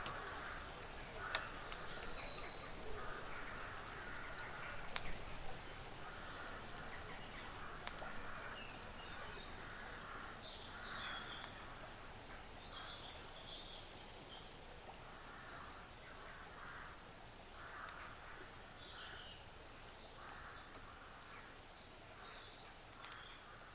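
Woodland ambience: small birds chirping and calling over short patches of rustling that come and go, with a sharp high chirp about two-thirds of the way in. The whole slowly fades out.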